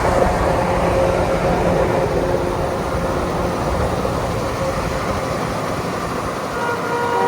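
Steady engine and road noise of passing road traffic. A few steady tones come in about a second before the end.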